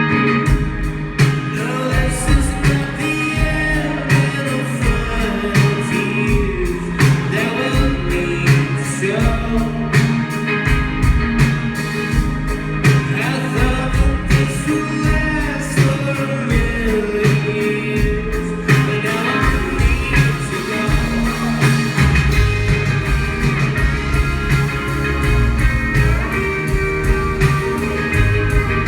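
Live band music: an instrumental stretch of a song, with guitars over a steady beat.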